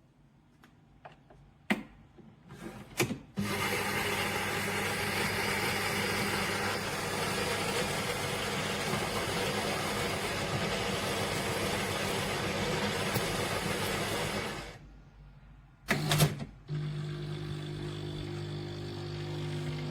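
Philips Baristina espresso machine at work: a few clicks, then its built-in grinder runs with a steady whirring for about eleven seconds and stops. After a short pause and more clicks, a steadier low hum starts, typical of the machine's pump beginning to brew.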